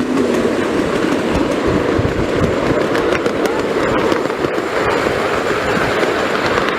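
Passenger train running along the track, heard from on board: a steady rumble and rattle of the carriage with a few light clicks from the wheels on the rails.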